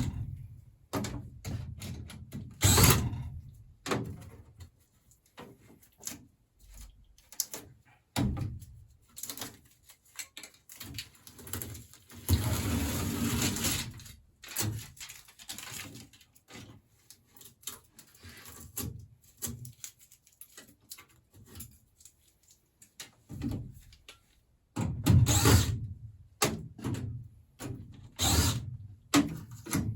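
Clanks and knocks of hand tools and metal parts as an old furnace is disconnected and taken apart, with a steadier noisy stretch of about a second and a half near the middle and a cluster of louder knocks near the end.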